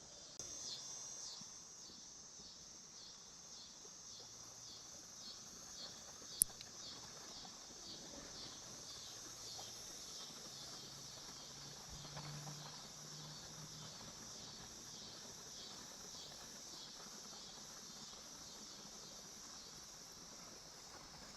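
Faint, steady chorus of insects buzzing high and pulsing, with one sharp click about six seconds in.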